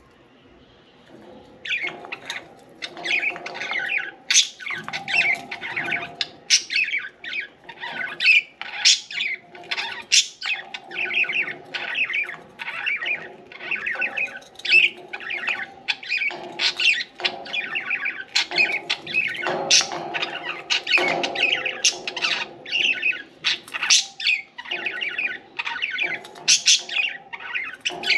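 Budgerigars chattering and chirping almost without a break after a quiet first second or so: a busy stream of short, high warbles and squawks mixed with sharp clicks.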